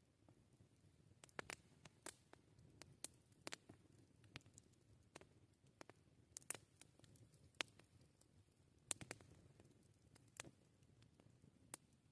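Wood campfire crackling: scattered sharp snaps and pops at irregular intervals over a faint low background.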